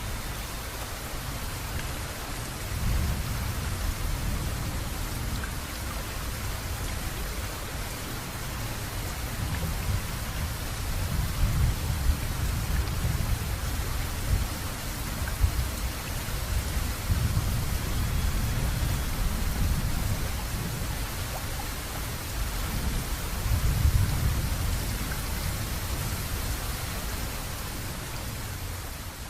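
Steady heavy rain hissing, with low rumbling swells that come and go every several seconds, like distant thunder or gusts; it fades down near the end.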